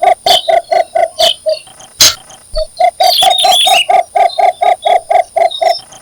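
Cinnamon bittern giving its mating call: a long series of short, low, evenly spaced notes, about five a second, in two runs with a sharp click between them. A higher chirping briefly overlaps the second run.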